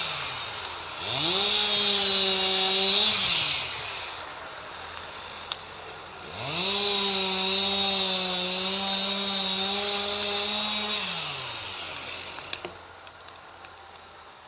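Two-stroke chainsaw revved to full throttle twice, each time holding a high steady whine for a few seconds before dropping back. The second run is longer, and the saw dies away near the end, leaving faint clicks.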